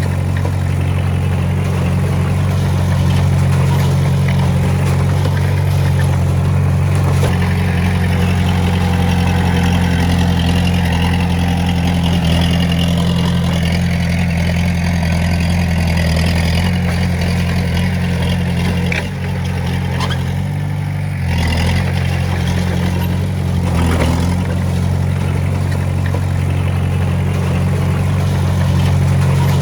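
Komatsu D20A crawler bulldozer's diesel engine running steadily. It eases off briefly about two-thirds of the way through, then picks up again.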